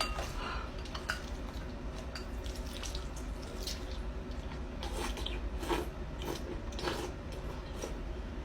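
A duck dabbling and eating from water with its bill, making irregular wet slurps and small splashes.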